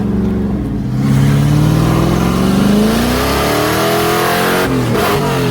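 Car engine revving hard, its pitch climbing over several seconds. It drops sharply about five seconds in, then climbs again.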